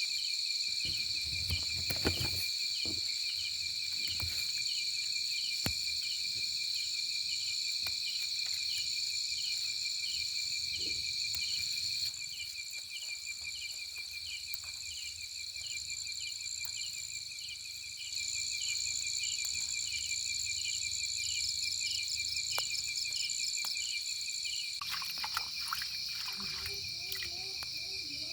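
Chorus of forest insects shrilling: several steady high-pitched tones, with one pulsing about twice a second. One of the tones stops for a few seconds partway through, then comes back.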